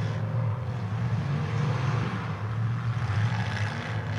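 Demolition derby cars' engines running on the track, a steady low drone.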